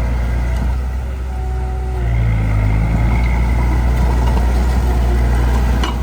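Heavy diesel engine of earthmoving machinery running steadily, easing off briefly and then picking up again about two seconds in.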